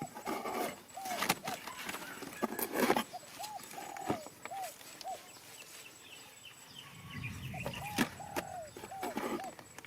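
Birds calling in short, rising-then-falling notes, a few at a time, over rustling and sharp knocks and clicks.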